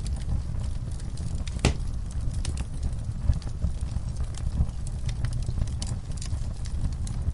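Wood fire in a fireplace crackling: irregular sharp pops over a steady low rumble of burning, with one louder pop about a second and a half in.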